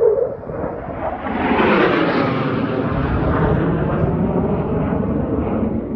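Fighter jet flying past: its engine noise swells to a loud peak about two seconds in, then slowly fades.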